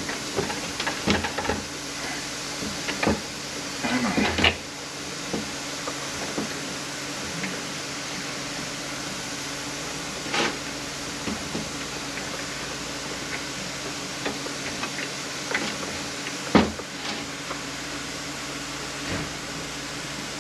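Automatic transmission internal parts being slid out and handled during a teardown: scattered metal clicks and knocks, a short cluster about four seconds in and sharp single knocks near the middle and about three-quarters through, over a steady hum and hiss.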